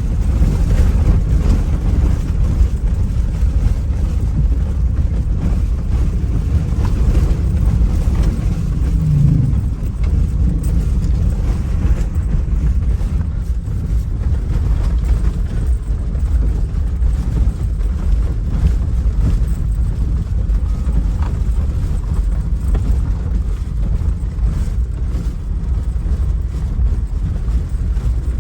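Steady low rumble of a motor in motion, with wind buffeting the microphone.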